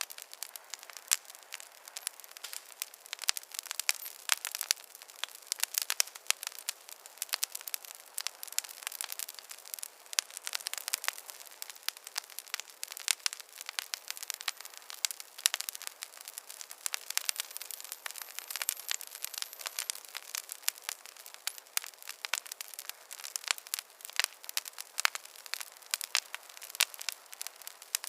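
Wood fire crackling: a steady stream of irregular sharp pops and snaps over a soft hiss, with no low rumble.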